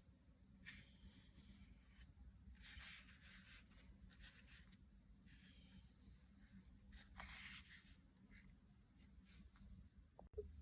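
Faint, irregular rubbing or scratching strokes, each under a second long, with near silence between them. There is a brief click near the end.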